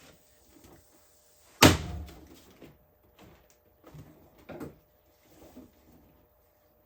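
A single loud bang about a second and a half in, dying away quickly, followed by a few quieter knocks and handling sounds.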